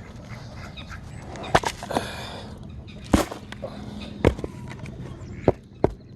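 A few sharp knocks or clicks at uneven intervals, over faint background sounds from the poultry flock.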